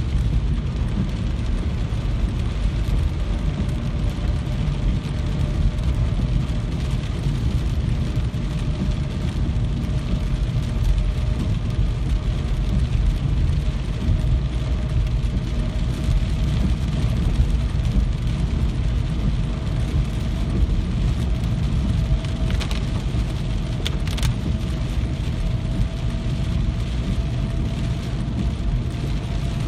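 Steady heavy rain with a deep low rumble underneath, a faint hum that slowly creeps up in pitch, and two sharp clicks near the end.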